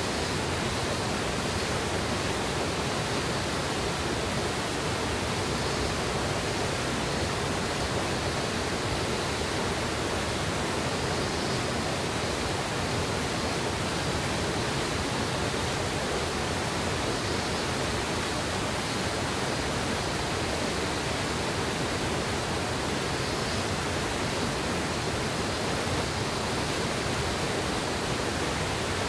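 Mountain river water flowing, a steady, unchanging rush.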